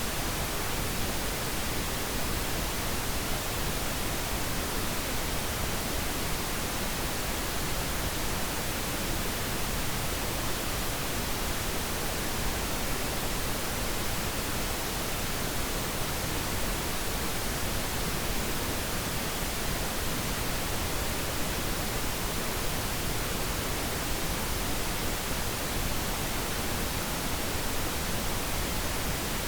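Steady pink noise, an even hiss-like rush with no change, played as a sleep aid for babies.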